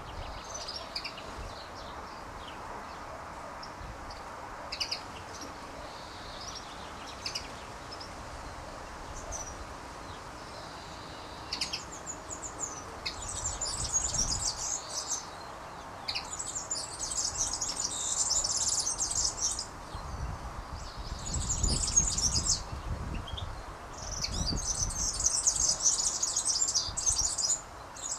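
Small birds chirping and singing in high-pitched phrases, with scattered chirps at first and then dense, rapid bursts of song a few seconds long from about halfway through.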